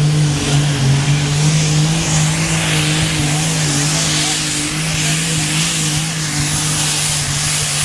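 A competition pulling tractor's engine runs loud and steady at an even pitch, with a faint high whine over it.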